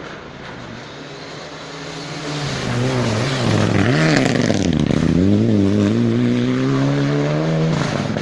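Rally car approaching and passing at full attack, its engine getting louder. The engine note dips and climbs several times as the driver lifts and shifts, then pulls up steadily before another gear change near the end.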